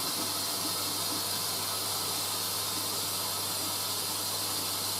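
Hoover A3060 Electronic 1100 washing machine filling for its final rinse: a steady hiss of water rushing in through the dispenser drawer, carrying the fabric conditioner, with a low steady hum beneath.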